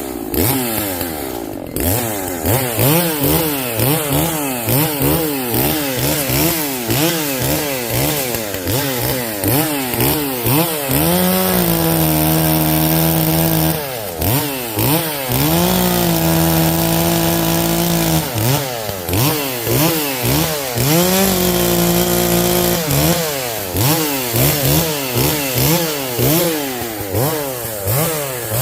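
Echo CS-590 Timberwolf 59.8 cc gas chainsaw cutting limbs. The engine revs up and down over and over, and three times holds a steady, lower pitch for a few seconds while it is loaded in a cut.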